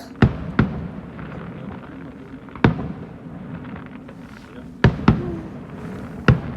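Fireworks display: shells bursting with sharp bangs, six in all at uneven intervals, two of them close together near the end, over a steady low background din.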